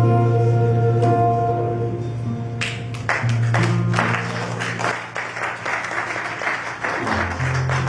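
A worship song's closing chord held by the band, then the congregation applauding from about two and a half seconds in, over low sustained notes from the instruments.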